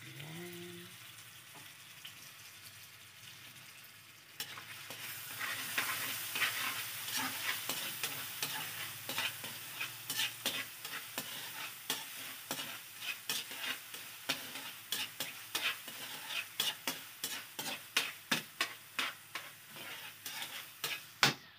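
Diced chicken ham and canned tuna frying and sizzling in a metal pan while metal tongs stir them, scraping and tapping the pan in quick, repeated clicks. The sizzle and the tong clicks grow louder about four seconds in.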